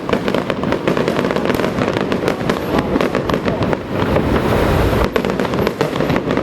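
Strings of small firecrackers going off in a dense, rapid, continuous crackle of sharp bangs.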